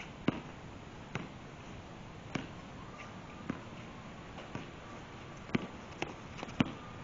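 A basketball bouncing on a court, single sharp bounces at uneven intervals of about one a second, with two closer together near the end.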